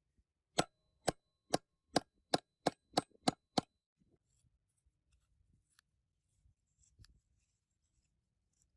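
A run of nine sharp knocks, each with a short ring, coming faster as they go, over about three seconds; then only faint small clicks.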